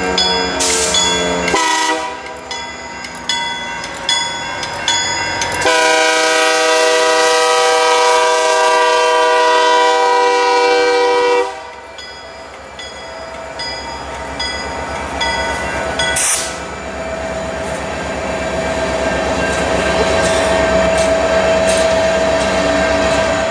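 Freight train led by an IC GP40R diesel locomotive passing close, with a horn sounding briefly at the start and then a long multi-tone horn blast from about six to eleven and a half seconds in. After the blast the covered hopper cars roll by, clicking rhythmically over rail joints, with a steady ringing tone that grows toward the end.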